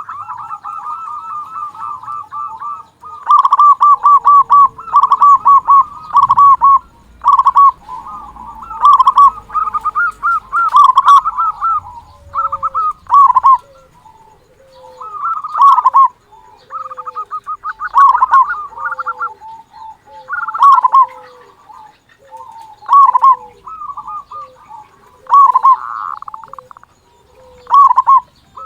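Zebra dove (perkutut) cooing: loud bursts of rapid rolling coo notes, repeated again and again. About halfway through, a lower short falling note joins in, repeating roughly once a second.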